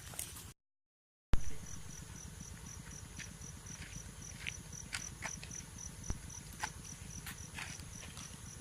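Insects chirping: a high, evenly pulsed chirp about four times a second over a steady high buzz, with a few faint clicks. It starts after a brief dead silence about a second in.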